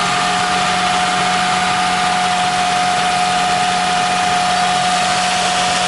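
2001 Toyota Sienna's 3.0-litre V6 idling steadily after a starter replacement, with a steady whine over the engine's rush.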